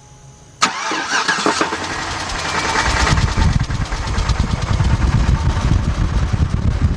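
A 5.3-litre V8 catches suddenly about half a second in, then runs rough with a rapid, uneven low pounding that grows heavier after a couple of seconds. It is the loud, misfiring engine noise of the customer's complaint.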